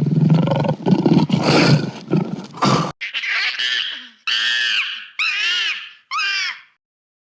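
A big cat roaring and growling, loud and rough, for about three seconds. After a cut come four short, high-pitched animal calls, each rising then falling in pitch.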